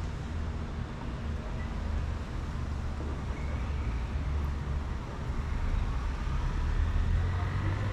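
City street ambience: a steady low rumble of traffic with an even hiss over it.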